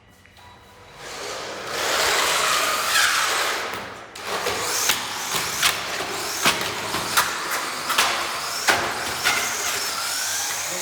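Brushed electric motor of a WLToys 144002 RC monster truck whining up and down in pitch as it drives over rough ground, with tyre noise. After about four seconds, a string of sharp knocks and clicks follows as the truck bounces over the surface.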